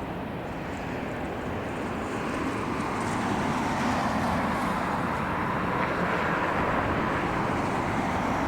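Jet engines of an arriving airliner on final approach, a steady rushing whine that grows louder as the plane comes nearer.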